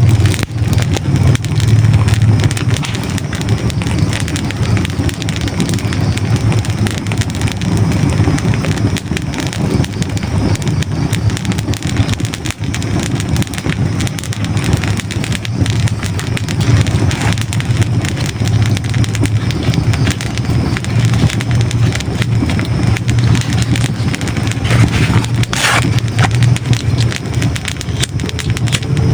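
Hardwood logs burning in a fireplace: a steady low rumble of flame under constant fine crackling, with one louder pop near the end.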